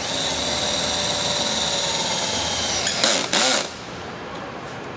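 Power drill driving a 2-inch screw through the steel table frame into the top, running with a steady whine for about three seconds, then a brief louder rattle just after three seconds before it drops to a quieter hum.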